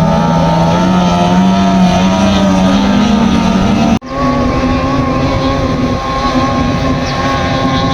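Racing powerboat engine running, its pitch climbing slowly over the first three seconds. About four seconds in the sound breaks off for an instant, then the engine runs on at a steady, higher pitch.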